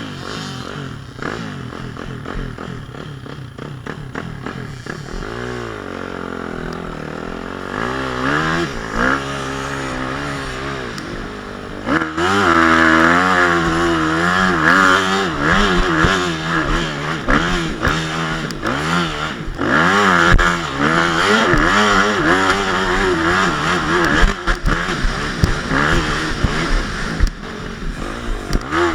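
Motocross motorcycle engine revving up and down again and again as the bike accelerates and eases off, getting louder about twelve seconds in.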